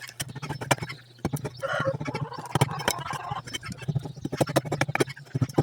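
Carving tool working wood in a quick, irregular series of sharp clicks and scrapes, over a steady low hum.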